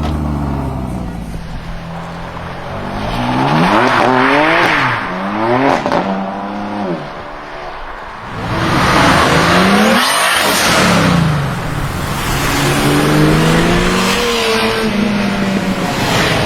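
High-performance BMW engine revving hard, its pitch climbing and dropping repeatedly as the car accelerates through the gears and passes, loudest about halfway through.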